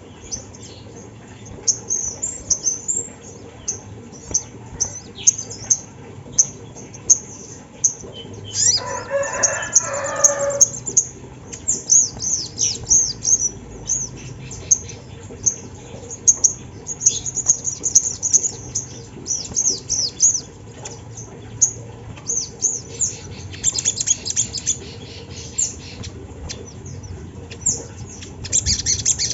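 Little spiderhunter (sogon) calling: a rapid run of short, very high chirps, many of them quickly falling in pitch, going on without a break. About nine seconds in, a lower, louder call of about two seconds cuts in.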